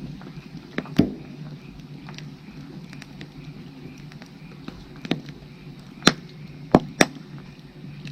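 Firewood burning, crackling with sharp pops: one loud pop about a second in and three more close together near the end. Under it, a faint repeating chirp of frogs calling.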